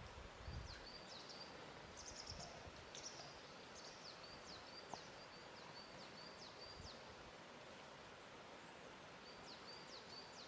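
Faint lakeshore ambience: a steady soft hiss with a small bird calling in quick high chirps and short trills for the first seven seconds and again near the end, and a few soft low thuds in the first few seconds.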